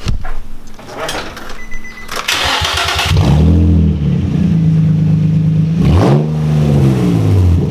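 An Infiniti G35's 3.5-litre V6 with its exhaust removed cranks and catches about three seconds in, then runs loud and open, unmuffled. About six seconds in it gets a brief rev and settles back.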